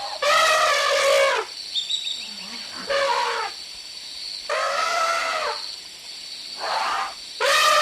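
African elephant trumpeting: a series of about five brassy, horn-like calls, each around a second long and sliding down in pitch at the end, with short pauses between them.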